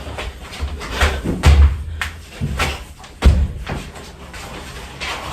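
A run of irregular knocks and thumps, several a second at times, with the deepest and loudest thuds about one and a half and three and a quarter seconds in.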